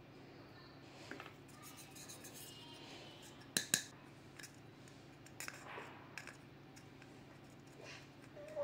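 Metal tweezers clicking and scraping as they pick packed dirt out of the vacuum cleaner's motor and fan housing, with two sharp clicks about three and a half seconds in.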